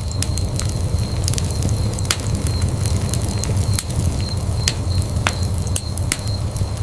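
Wood fire burning in a fireplace: a steady low rumble of the flames with sharp, irregular crackles and pops of the burning logs.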